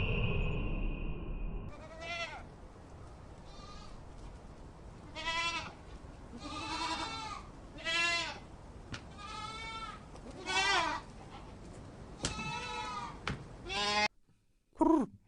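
Farm livestock bleating: about nine quavering calls in a row, some close together. In the first second and a half a high, steady whistle-like call fades out. Near the end, after a sudden cut, comes one short call of a different kind.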